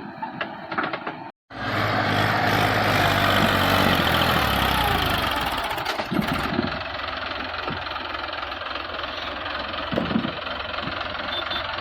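Diesel tractor engine running hard, its pitch sagging slowly over a few seconds, then settling to a steadier, quieter run with a few knocks.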